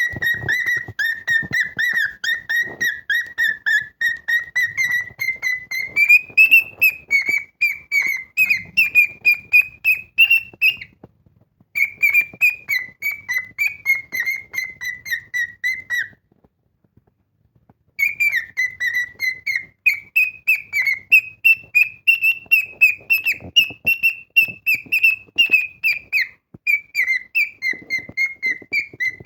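Male cockatiel singing loudly: a fast run of short whistled notes, several a second, at one pitch that drifts gently up and down. A brief pause comes a little over a third of the way in, and a break of about two seconds past the middle.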